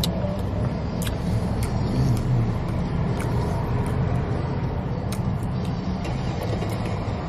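Steady low rumble of a car idling, heard from inside the cabin, with a few soft clicks of chewing over it.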